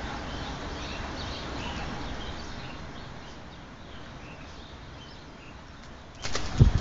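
High wind blowing through woodland trees: a steady whooshing rush that swells slightly and then eases. Near the end, louder crunching of ice and snow on a deck begins.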